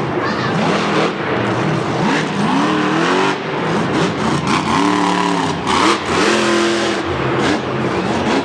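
Monster truck's supercharged V8 revving hard, rising and falling in pitch several times in quick succession.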